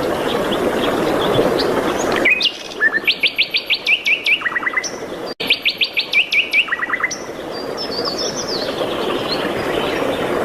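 A songbird singing two near-identical phrases, each a fast run of high, falling notes ending in a short lower trill. A steady rushing background noise is heard before and after the singing.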